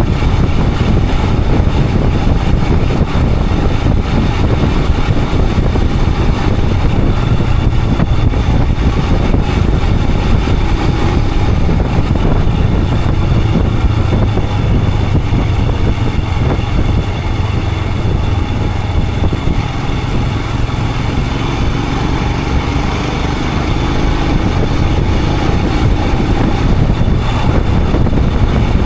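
Royal Enfield Himalayan 411's single-cylinder engine running steadily while the motorcycle is ridden, with a dense low rumble. It eases off slightly about three-quarters of the way through, then picks up again.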